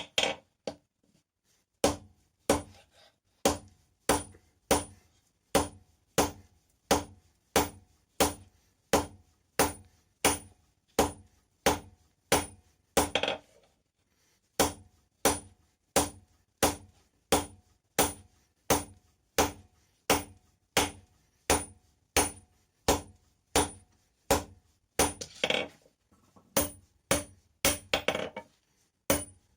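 Blacksmith's hammer striking hot rebar on an anvil in a steady rhythm, a little under two blows a second. There is a short pause about halfway, and quicker blows near the end.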